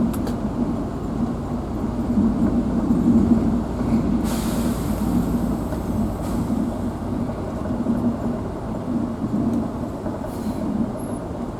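A vehicle driving on a forest road, heard from inside the cab: steady engine and road rumble with a low drone, and a brief hiss about four seconds in.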